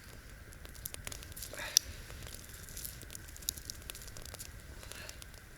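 Small wood campfire crackling, with irregular scattered pops and one sharper snap a little under two seconds in.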